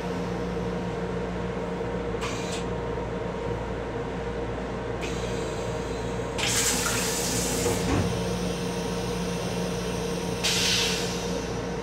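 Steady running hum of a Metro-North M7 railcar heard inside its small restroom, broken by bursts of hissing: a short one about two seconds in, a longer, louder one from about five to eight seconds in, and another near the end.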